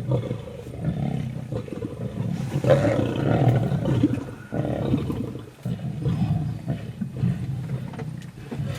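Lions growling in rough, uneven bursts, loudest about three seconds in.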